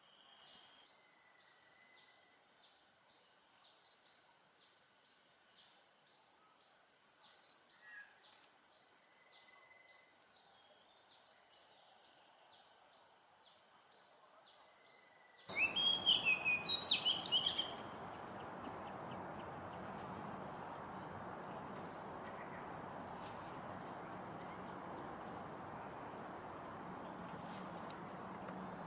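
Insects drone steadily at a high pitch, one of them chirping about twice a second. About halfway through, the background abruptly changes and a bird gives a loud, rapid run of calls lasting about two seconds; after that the insects keep droning.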